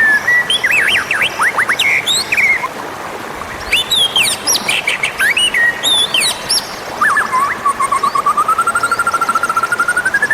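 White-rumped shama (murai batu) song: a varied run of clear whistles, quick slurred notes and chatter, then a long rippling trill that slowly rises in pitch.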